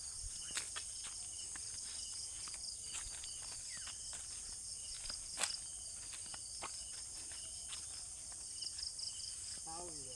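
A steady high-pitched chorus of insects buzzing, with scattered light clicks and one sharp click about halfway through.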